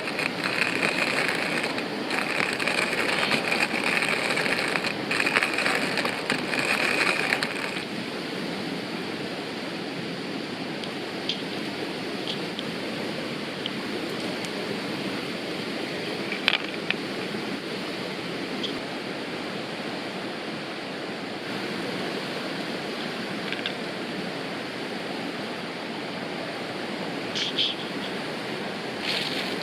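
Steady rushing of a river or stream. For the first several seconds a brighter hiss is also heard, and then it stops. A few faint clicks come later.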